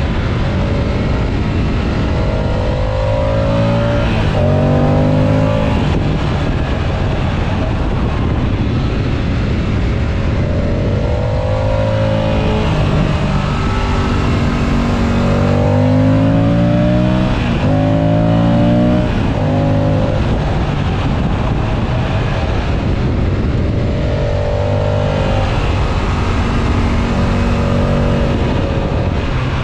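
Moto Guzzi Stelvio's transverse V-twin engine under way, climbing in pitch several times as it accelerates through the gears, over steady wind and road noise.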